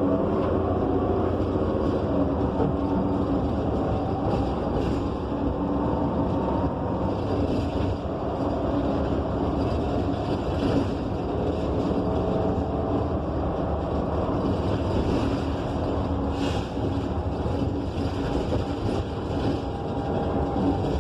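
Inside a Gillig BRT Plus transit bus on the move: its Cummins Westport ISL G natural-gas inline-six engine and Allison transmission drone steadily under constant road noise, the drone's pitch drifting up and down as the bus changes speed.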